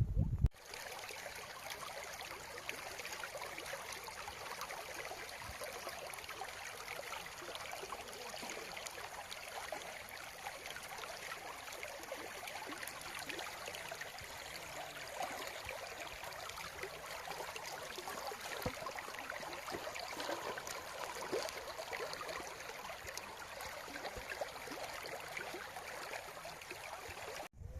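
Stream water running steadily over rocks, an even rushing babble with small splashes and no let-up.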